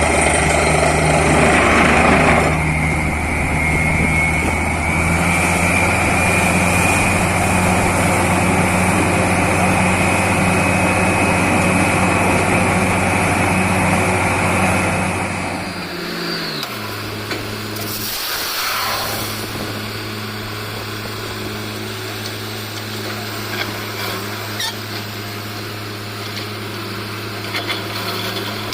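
Borewell drilling rig's engine and compressor running hard under a loud rushing noise, with a faint whistle slowly rising in pitch. About halfway through, the rushing stops and the engine slows, settling to a steady lower note.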